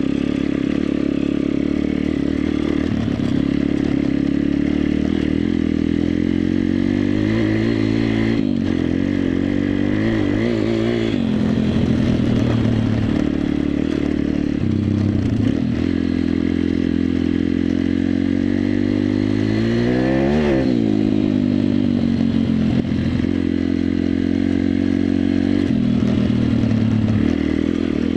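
Pit bike's 140 cc single-cylinder four-stroke engine under way, revs rising and falling repeatedly as it is ridden, with one sharp rev about twenty seconds in.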